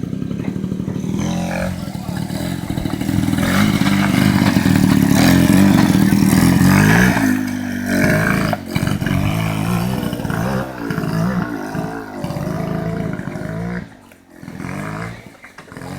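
ATV engine revving up and down under load, with a clatter of the machine over rough ground. It is loudest a few seconds in, rises and falls unevenly, then drops away near the end.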